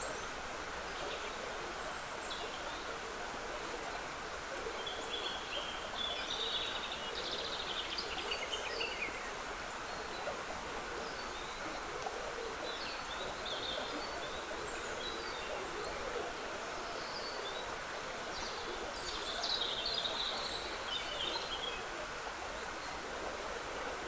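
Small woodland stream trickling steadily, with songbirds singing over it: two longer bursts of song and scattered short calls between.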